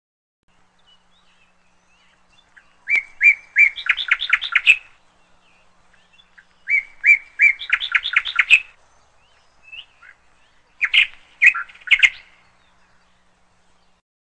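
A songbird singing three phrases a few seconds apart. Each phrase starts with a few evenly spaced notes and runs into a quicker series of higher notes.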